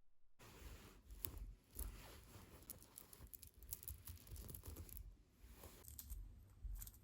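Faint rustling with scattered small clicks and taps from hands handling beading materials.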